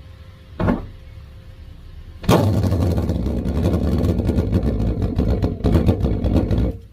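Pulse jet engine giving one short burst, then lighting about two seconds in and running loud with a rapid pulsing for about four and a half seconds before cutting off suddenly.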